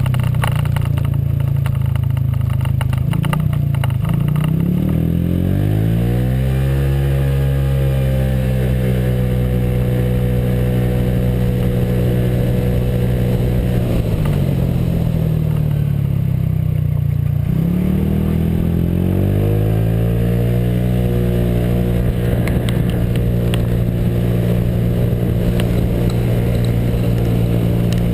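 Honda PCX scooter's single-cylinder engine, fitted with a J.Costa variator and exhaust, pulling under way. Its note climbs about a quarter of the way in, eases off a little past the middle, then climbs again and holds steady.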